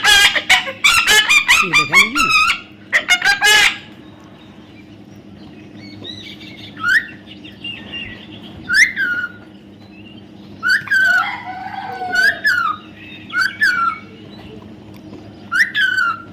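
Baby parrot calling: a run of loud, harsh squawks in the first three or four seconds, then short falling chirps every second or two.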